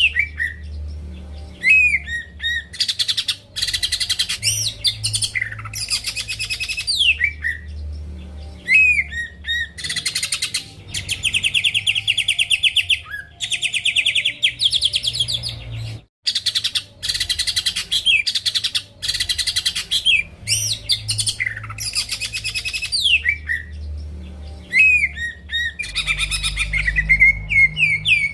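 Cucak ijo (green leafbird) singing a loud, varied song of rapid chattering trills and sharp down-slurred whistles, phrase after phrase, used as a lure song to provoke other birds to sing. There is a short break about sixteen seconds in, after which the same sequence of phrases starts over.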